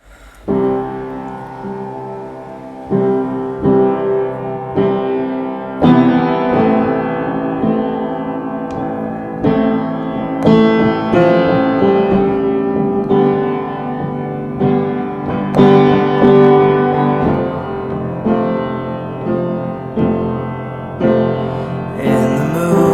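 Instrumental intro of an unplugged song played on one acoustic instrument: notes and chords struck one after another, each ringing on, with no singing.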